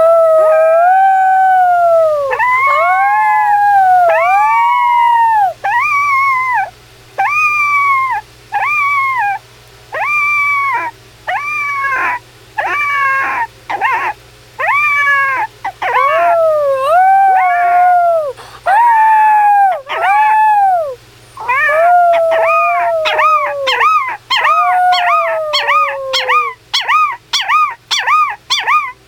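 A puppy and a person howling together: a long string of rising-and-falling howls, turning into quicker, shorter yipping howls over the last several seconds.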